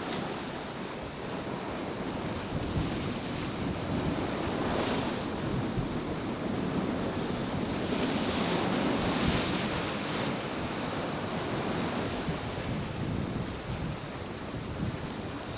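Sea surf washing in, with wind buffeting the microphone; the wash swells louder around the middle.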